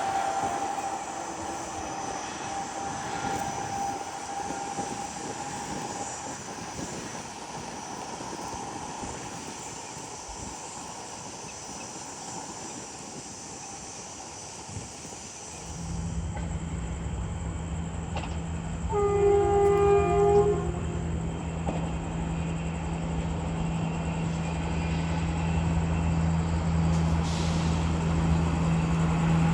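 Indian Railways locomotive approaching with a steady low hum that grows louder, and about two-thirds of the way through it sounds one multi-tone horn blast lasting about a second and a half. Before that, a fainter steady tone and rail noise fade away.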